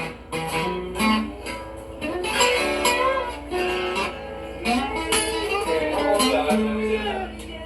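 Rock-and-roll guitar instrumental: a picked lead melody over strummed guitar chords, from an old, noisy amateur recording.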